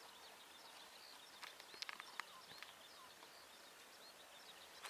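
Near silence: faint outdoor ambience with small birds chirping over and over, and a few short clicks about two seconds in.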